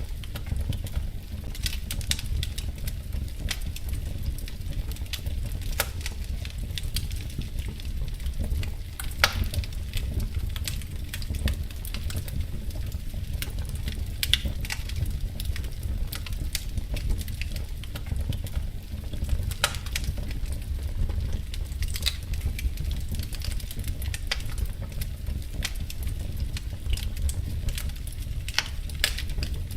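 Wood fire burning in a fireplace, with irregular crackles and pops over a steady low rumble.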